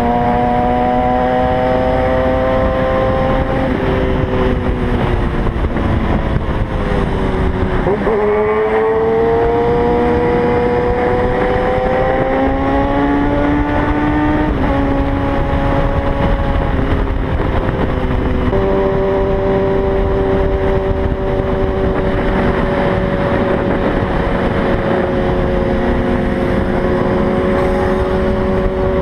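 Kawasaki ZX-6R inline-four sport bike engine running at highway speed under heavy wind rush. Its pitch dips about eight seconds in, climbs steadily for several seconds, drops suddenly around fifteen seconds in, then holds steady.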